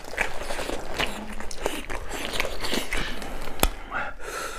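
Close-miked crunchy chewing of singju, a raw vegetable and herb salad, with crisp crackles and wet mouth sounds throughout and one sharper click about three and a half seconds in.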